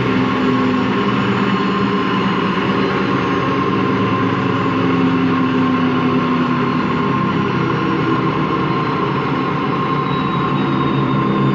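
Empty washing machine on its spin cycle: a steady whine over a grinding noise that the owner puts down to worn motor or drum bearings.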